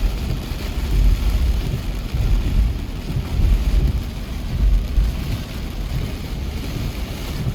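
Vehicle travelling through rain: a steady hiss of rain and wet road noise over a low rumble that swells several times.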